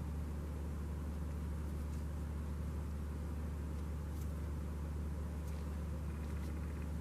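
A small motor running with a steady low drone.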